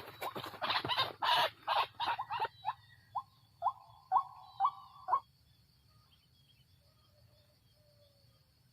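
White-breasted waterhen calling: a run of short repeated notes, fast at first and slowing to about two a second, stopping about five seconds in.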